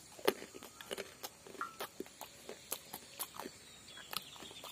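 Mouth sounds of someone chewing fruit close to the microphone: irregular wet smacks and clicks, several a second.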